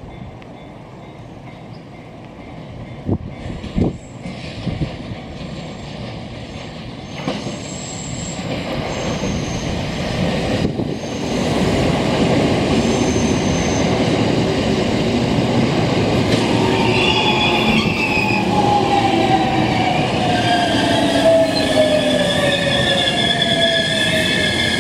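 Commuter electric train pulling into the platform: the running noise grows and turns loud as the cars come alongside, then a whine falls steadily in pitch as it brakes, with high squealing from the wheels and brakes as it comes to a stop.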